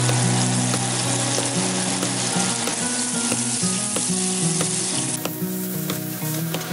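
Butter melting and sizzling with minced garlic in hot oil in a frying pan: a steady, dense crackle of frying.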